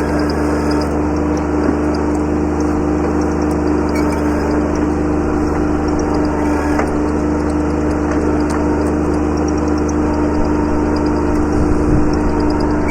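Kubota B7100 subcompact tractor's three-cylinder diesel engine running steadily at a constant speed, with a few faint knocks over it.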